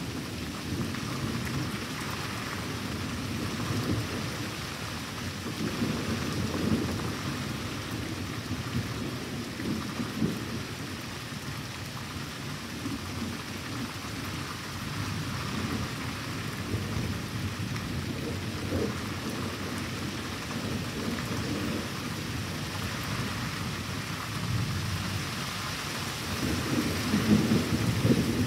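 Thunderstorm: steady rain with rolling thunder rumbling in waves, the loudest roll near the end.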